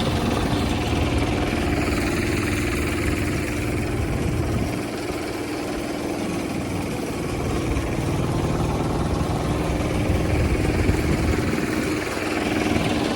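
Hand tractor engine running steadily, dipping slightly in level for a couple of seconds in the middle.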